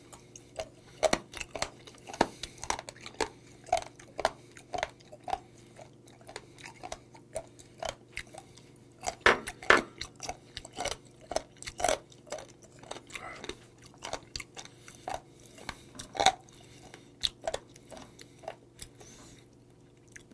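Close-miked chewing of sea squirt (mideodeok): many short, irregular clicks of teeth and mouth working the firm flesh, which stop about a second before the end.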